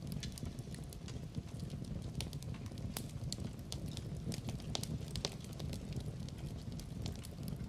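Wood fire burning in a fireplace, with a steady low roar and irregular sharp crackles and pops, the loudest about three seconds in and again after five seconds.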